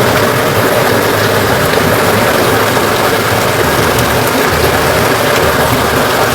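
Heavy rain and rushing floodwater making a loud, steady roar, with a faint low hum that may be a vehicle engine underneath.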